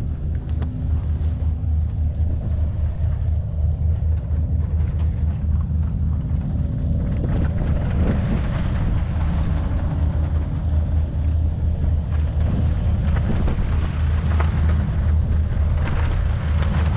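Motorboat engine running with a steady low drone, its noise building slowly over the second half as the boat comes nearer.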